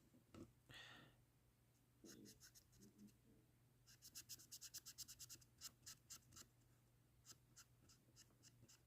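Faint short strokes of a fine-tip alcohol marker dabbing and rubbing over a small gray-primed model part, with a quick run of rapid strokes about four seconds in.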